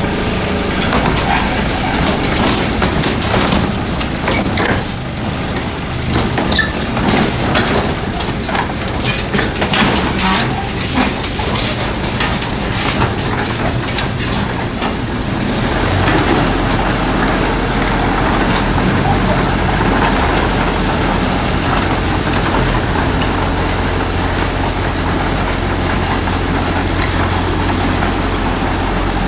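Heavy diesel earthmoving machinery at work: irregular clattering and knocks over a running engine for about the first half, then a steady low diesel engine hum.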